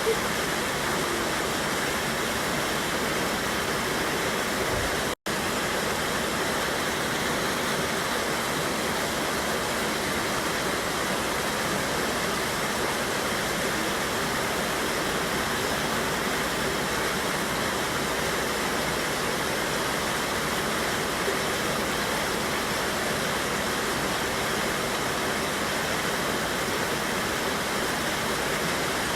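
Steady rush of a mountain river's waterfall, water pouring and tumbling over rocks at an even level. The sound cuts out for an instant about five seconds in.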